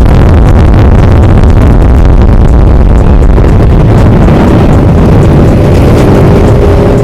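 Loud, distorted motorbike and ATV engine noise from a crowd of riders, heaviest in the lows, with a few steady tones coming in near the end.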